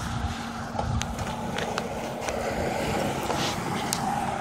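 A vehicle driving through floodwater, a steady rush of water and tyres, with a small engine's steady hum underneath.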